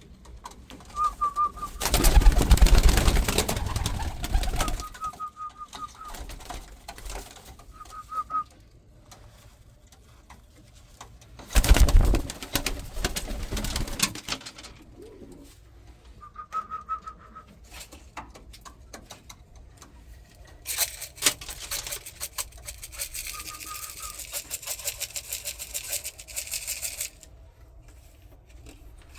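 Domestic racing pigeons in a loft, cooing, with two loud rustling bursts and a stretch of rapid clicking near the end.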